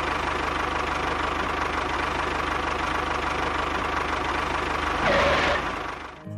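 Mini tractor running steadily with a fast, even knocking pulse. It swells with a brief whine about five seconds in, then fades near the end.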